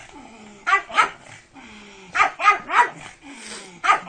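Pug barking in short bursts: two barks about a second in, three more in quick succession just after two seconds, and another starting at the very end.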